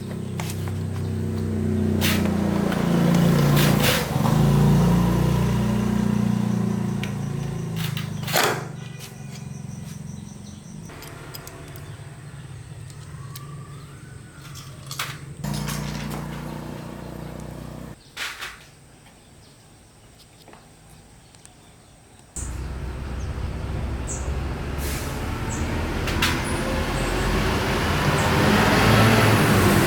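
Honda four-stroke motorbike engine running, heard in several abruptly cut segments, with a few sharp knocks and a quieter stretch about two-thirds of the way through.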